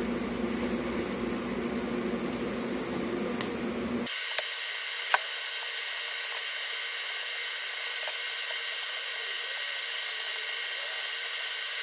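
TIG welding arc hissing steadily while high-nickel filler rod is fed into a crack in a cast iron exhaust manifold. About four seconds in the sound changes abruptly: the lower hum drops out and a thinner steady hiss remains, with a sharp click about a second later.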